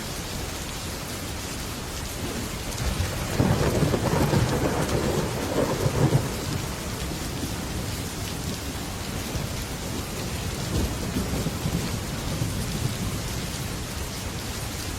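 Heavy rain falling steadily on a metal roof, with a roll of thunder that swells about three seconds in, rumbles for a few seconds and dies away, and a fainter rumble later on.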